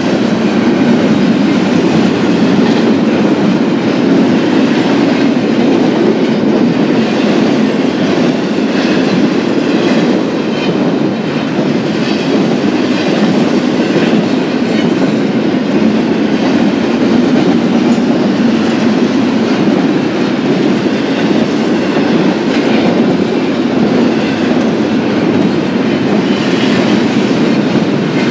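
BNSF freight train rolling past at close range: a steady, continuous rumble of steel wheels on rail, with some clickety-clack.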